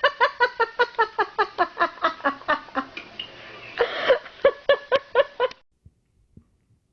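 A rapid run of short, high-pitched vocal calls, about five a second, that stops abruptly about five and a half seconds in.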